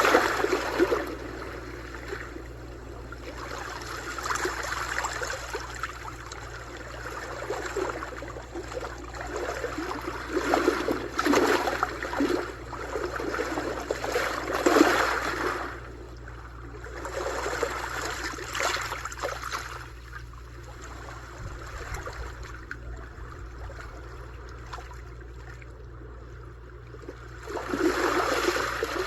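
Sea waves breaking and washing on a shore, a hissing wash that swells and falls in slow surges several seconds apart, with quieter lulls between them.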